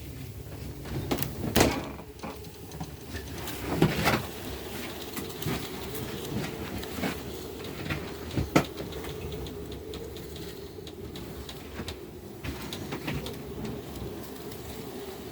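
Blizzard wind blowing steadily, rumbling on the microphone, with scattered sharp knocks and rattles, the loudest about a second and a half in, around four seconds in and near the middle.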